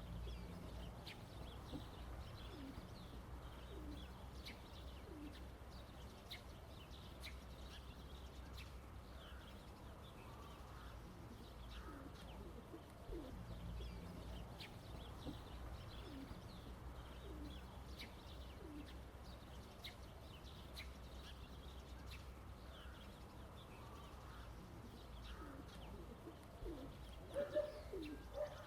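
Faint, scattered bird calls, with a few louder calls near the end, over a steady low background hum.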